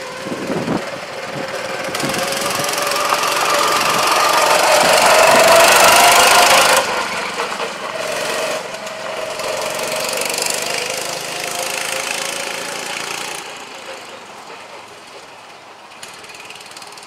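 Small 6.5 hp Honda-clone single-cylinder engine driving a converted Farmall tractor, running under load in gear. It gets louder to a peak about six seconds in, drops off sharply and then fades as the tractor moves away.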